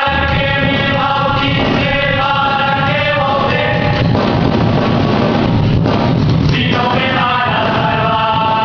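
A band plays with sung vocals in long held notes. The voice drops out after about four seconds while the band carries on, and the singing comes back about six and a half seconds in.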